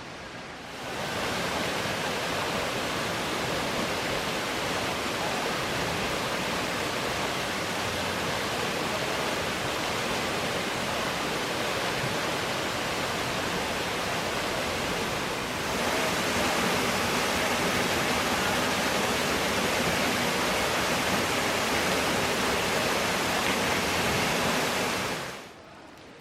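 Waterfall rushing: a steady, even roar of falling water that starts about a second in, grows louder about two-thirds of the way through, and cuts off abruptly near the end.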